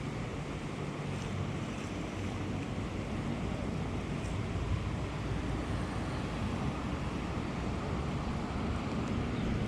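Steady wind noise on the microphone, a low, even rush.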